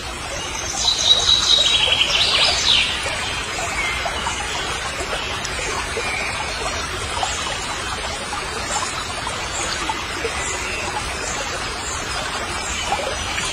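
Small birds chirping, with a quick trill, loudest in the first few seconds, then fainter chirps over a steady outdoor hiss.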